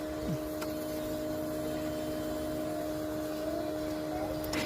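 A steady faint hum, then a sharp click near the end as the Honda CBR150R's starter is pressed, after a month without being started.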